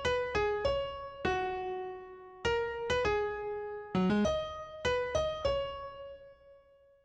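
Solo electric piano playing a slow melody of single struck notes in short phrases, each note ringing and fading; the last note dies away almost to silence near the end.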